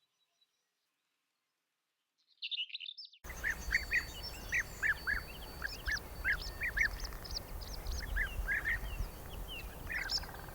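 Wild birds singing in the open, many short notes repeated rapidly with a steady background hiss, after about two seconds of silence and a brief burst of song.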